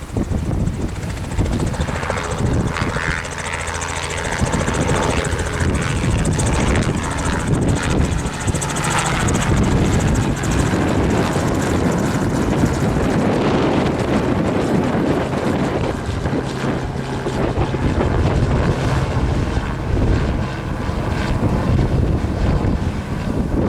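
Helicopter running close by, its steady rotor and engine hum under strong wind buffeting the microphone.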